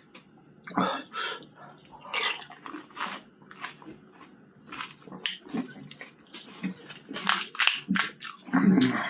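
Close-miked eating of pani puri: crisp puri shells crunching and the sour spiced water slurped and chewed, in irregular bursts, the loudest near the end.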